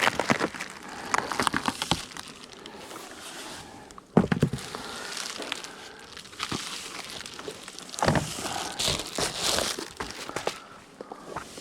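Crinkly wrapping material being handled and crumpled, with scattered clicks and a sharp knock about four seconds in, as a hive is opened to reach the feeder.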